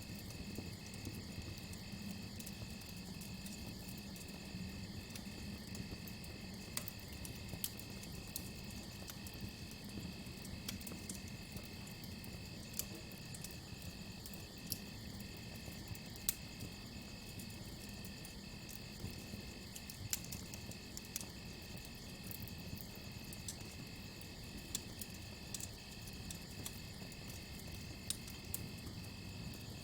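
Crickets chirping in a steady, continuous trill over a crackling campfire, with sharp pops scattered throughout.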